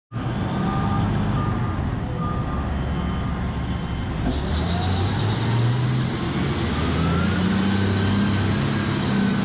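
Komatsu 730E mining haul truck's diesel-electric drive running steadily, with a reversing alarm beeping at an even pace through the first few seconds, then a whine rising in pitch.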